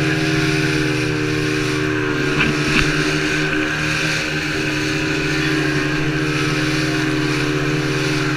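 Motorboat engine running steadily at cruising speed, with a couple of brief knocks about two and a half seconds in.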